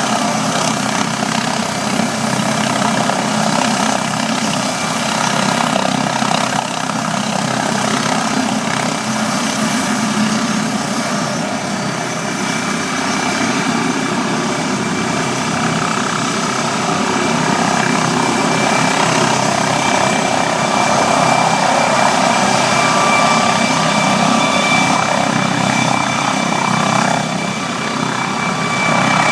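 Helicopter running close by: steady rotor and turbine noise with a high, even turbine whine, getting slightly louder in the second half.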